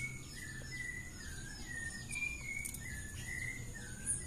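A songbird singing a steady run of short chirping notes, a few a second, at about the same pitch throughout, over a faint steady high-pitched whine.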